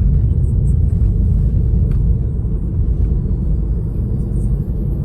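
Steady low rumble with no clear tone, loud and even throughout, easing slightly in the second half.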